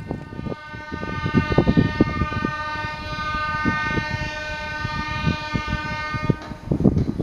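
Train horn sounding one long steady blast of about six seconds that cuts off, over the low rumble and thumping of a passing train.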